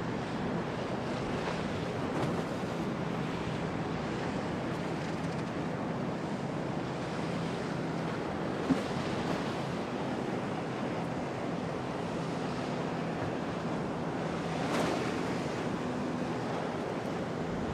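Storm wind and surf at a seaport: a steady rush of wind and breaking water with a faint low drone underneath. A single sharp knock comes about halfway through.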